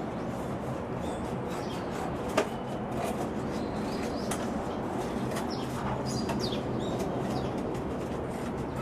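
Birds chirping in short calls over a steady background rumble, with one sharp click about two and a half seconds in.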